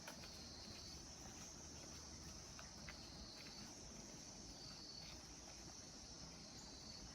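Faint, steady chirring of insects, a continuous high trill, with a few soft taps.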